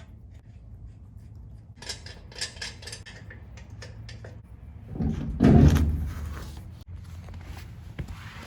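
Metal clinks and rattles, then a loud heavy thud with a scrape about five seconds in: a wheel and tire being handled and fitted onto a truck's rear axle hub.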